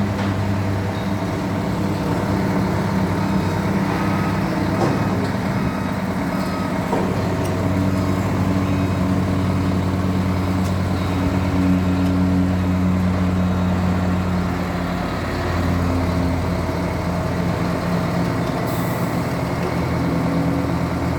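Heavy diesel engine running steadily, its pitch shifting a little now and then.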